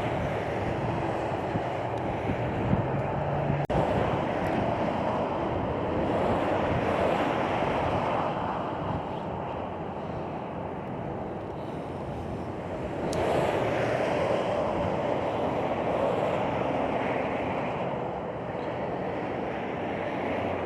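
Interstate highway traffic passing below an overpass: a continuous rush of tyres and engines that swells twice as heavier groups of vehicles go by. Strong wind buffets the microphone throughout.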